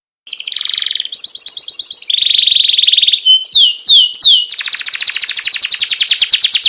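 Songbird singing a string of very fast rolling trills, broken in the middle by a few short down-sliding whistles, starting abruptly about a quarter second in.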